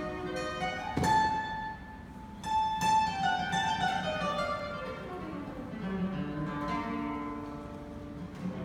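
Classical guitar playing: a high note struck about a second in and again near three seconds, then a line of notes falling steadily in pitch over the next few seconds.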